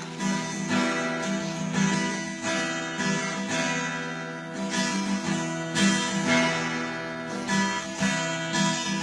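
Acoustic guitar strummed in a steady rhythm, playing a song's instrumental introduction.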